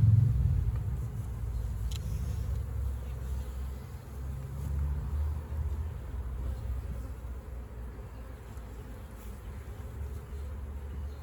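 Honeybees buzzing close to the microphone in a steady, low drone. A louder low rumble at the start fades out within the first second.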